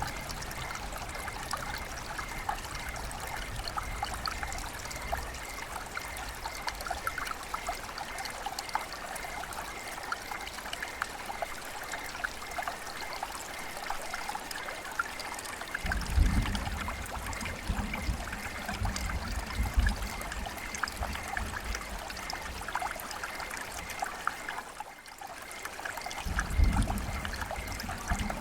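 River water flowing and trickling steadily over stones, a dense patter of small splashes. In the second half a low rumble comes and goes under it, and the level dips briefly a few seconds before the end.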